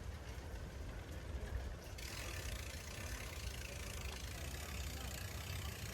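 Wind buffeting the microphone, heard as an unsteady low rumble, with a hiss that grows louder about two seconds in.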